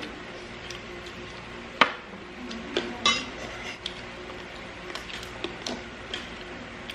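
Clinks and taps of dishes and cutlery during a meal: a sharp clink a little under two seconds in, then several smaller ones spread through the rest.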